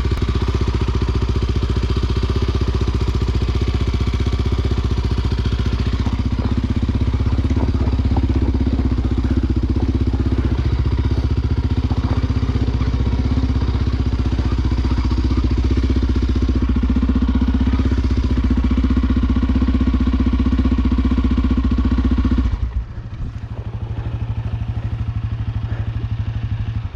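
Single-cylinder Honda XR Tornado 293 enduro motorcycle engine running steadily under way, then dropping back to a quieter, lower running near the end.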